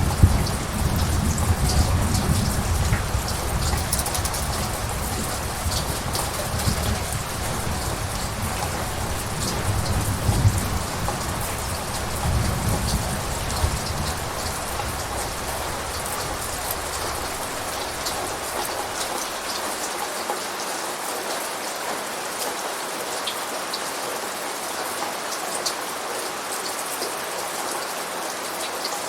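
Steady heavy rain, with scattered drops ticking. A low thunder rumble runs under it and dies away a little over halfway through.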